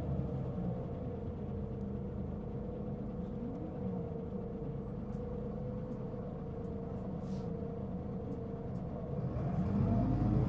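Mitsubishi Fuso Aerostar city bus heard from inside the cabin: the diesel engine note falls away at the start, the bus runs quietly with a steady whine, then the engine pulls up in pitch and gets louder near the end as it accelerates. This bus was noted for a considerable abnormal running noise.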